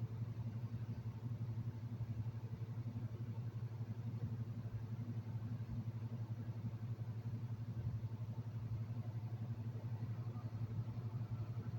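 A steady, low, engine-like rumble that does not change, like a vehicle running at a constant speed.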